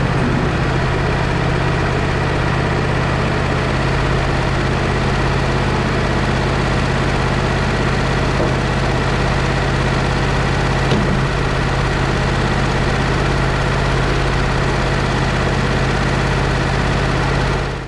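Wood-Mizer portable band sawmill's engine running steadily, with a steady low hum and a faint high whine over it. It cuts off suddenly right at the end.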